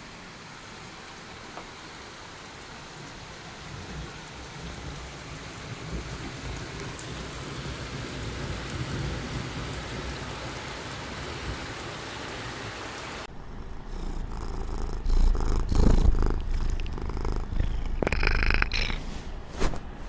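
Domestic cat purring close to the microphone, a steady low rumble under a hissy background. About thirteen seconds in the sound cuts to a louder, closer purr, with a few bumps and a short higher-pitched sound near the end.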